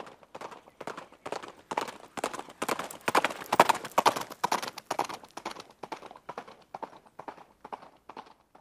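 Horse hooves clip-clopping in a steady rhythm of about four beats a second, growing louder toward the middle and fading away near the end, like a horse passing by.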